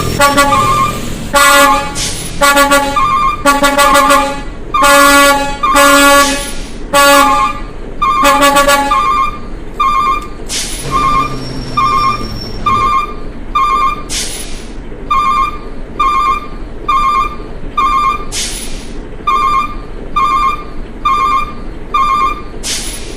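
Steady beeping, about one beep a second, with several louder horn-like blasts and hissing bursts over the first nine seconds or so.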